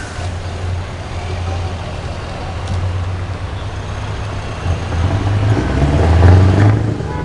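Scania V8 truck engine running loud and deep, building up to its loudest about six seconds in, then easing off.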